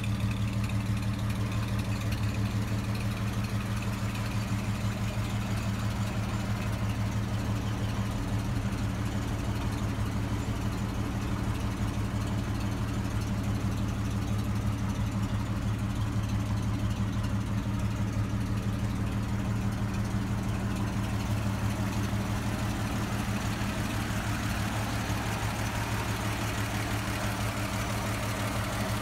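1929 Graham-Paige's engine idling steadily at an even, unchanging speed. Its mechanical clatter comes through more strongly in the last several seconds.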